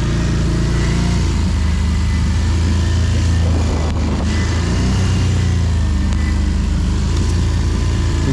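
ATV engine running under load while pushing through deep snow, its note rising and falling a little with the throttle.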